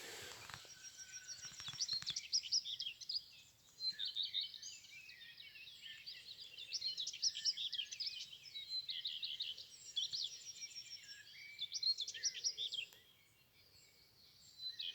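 Dawn chorus of several songbirds in a forest: overlapping chirps, trills and short high phrases, with a brief lull near the end. There are a few soft rustles at the start.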